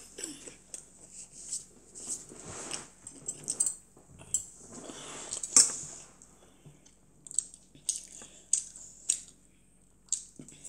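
A child chewing a mouthful of pork cutlet and rice close to the microphone, with wet mouth sounds. Metal chopsticks click sharply against a ceramic rice bowl several times, mostly in the second half.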